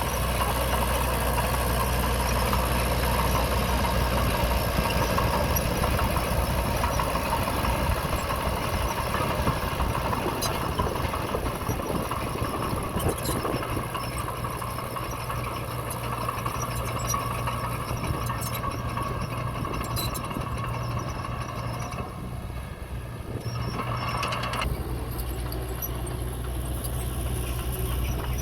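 Diesel engine of earthmoving machinery running steadily, with a few light clicks. The low engine note drops away for a couple of seconds about three-quarters of the way through, then comes back.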